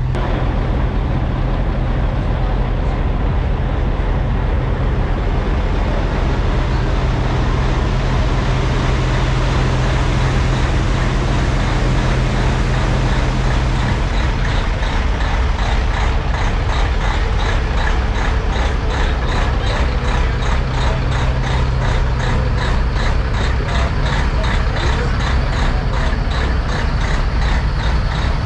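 Diesel semi-truck engines idling with a steady low running sound. A fast, regular ticking joins about halfway through.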